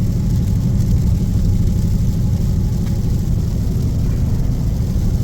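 Dodge Scat Pack's 6.4-litre HEMI V8 and tyres heard from inside the cabin while cruising at about 60 mph on light throttle: a steady low drone and rumble.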